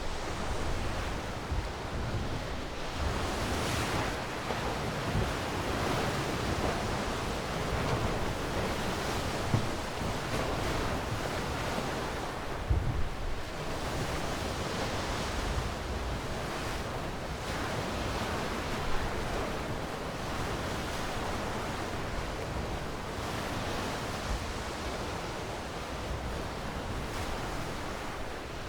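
Sea waves washing onto a shore, a steady surf that swells and eases in slow surges, with a few brief louder thumps.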